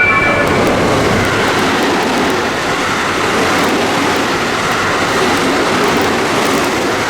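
JR West train passing through the station at speed without stopping: a loud, steady rush of wheels on rail and air, with the tail of its horn cutting off just as it begins.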